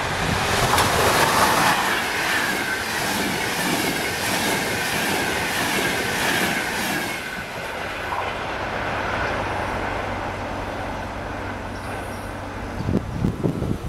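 Train passing at speed, its wheels clattering rhythmically over the rail joints while a whine falls in pitch as it goes by, then fading away. Wind buffets the microphone near the end.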